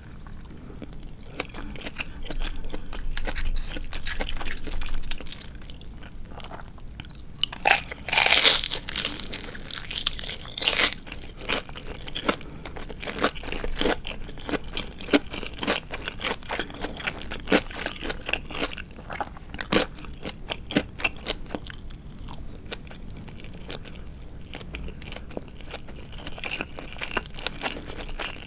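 Close-up chewing and crunching of crispy Japanese deep-fried marinated chicken (tatsuta-age), with many small crackles. The loudest crunching bites come about eight seconds in and again around eleven seconds.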